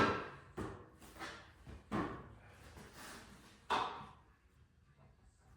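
A handful of separate clunks and knocks, about five over three or four seconds, the first the loudest, each dying away quickly, then it goes quiet.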